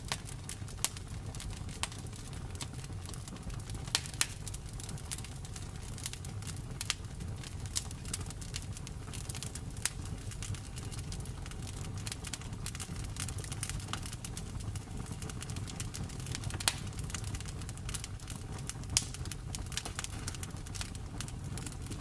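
Wood fire crackling: a steady low rumble of flames under frequent, irregular sharp pops and snaps, a few of them louder than the rest.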